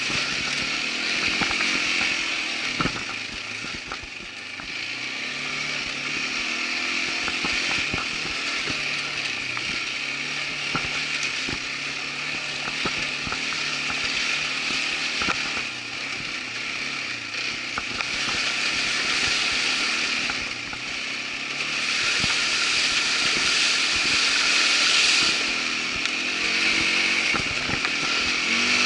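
Irbis ATV 200 quad bike's engine running as it is ridden over a rough trail, the revs and loudness rising and falling, with frequent short knocks and rattles from the ride.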